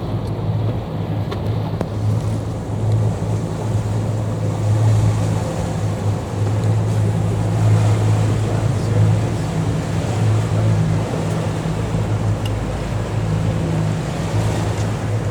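Tour boat's engine running steadily with a low drone, under a haze of water and wind noise.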